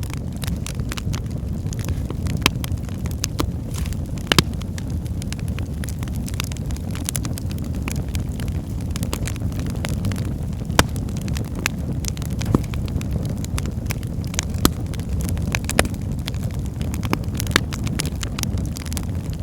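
Wood fire burning in a fireplace: a steady low rumble of flames with constant crackling and now and then a sharp louder pop from the logs.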